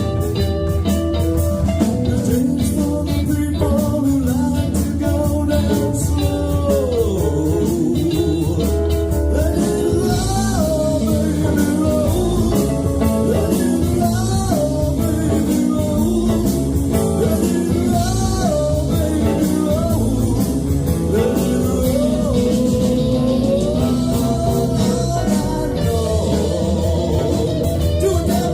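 Live band playing blues-rock: guitar, bass and drums, with a lead line that bends and slides in pitch over a steady beat.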